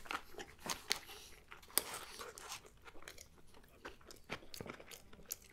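Close-miked chewing of a mouthful of gyro wrap with shredded lettuce: irregular moist crunches and small clicks, with one sharper crunch just under two seconds in.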